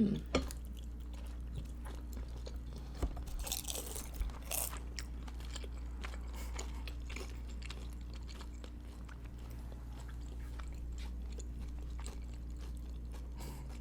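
Close-miked chewing and biting of dumplings and buns: a steady run of faint, wet mouth clicks, with two louder crunchy bites about three and a half and four and a half seconds in, over a steady low hum.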